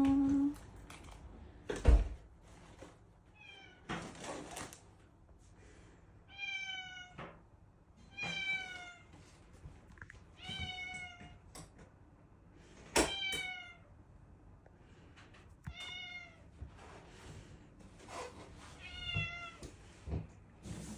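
Domestic cat meowing over and over, about seven drawn-out meows a couple of seconds apart, greeting someone who has just come home. A loud thump sounds about two seconds in.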